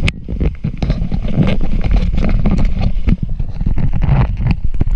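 A ride down a water slide heard from a camera carried along: rushing water and wind buffeting the microphone, with a rapid, irregular run of knocks and bumps against the slide.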